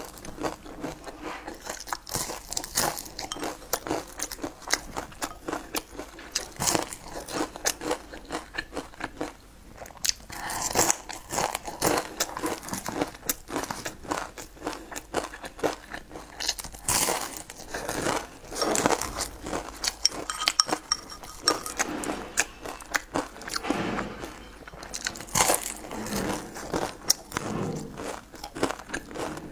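Close-miked eating: biting and chewing crispy fried corn fritters, a steady run of small crunches and crackles.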